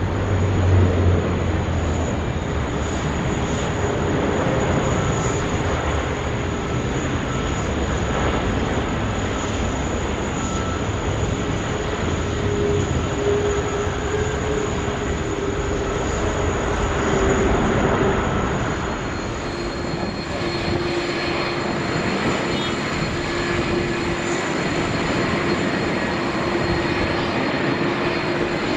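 Airbus A380 jet engines on a landing approach: a steady, loud jet noise with a held hum, swelling to a peak about two-thirds of the way through. Shortly after, the sound changes abruptly to a second A380 approaching with a steady hum.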